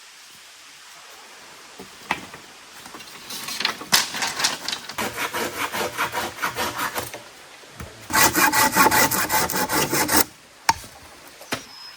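Hand saw cutting wood in quick back-and-forth strokes, about five a second, for a few seconds, then a louder, faster run of strokes about eight seconds in.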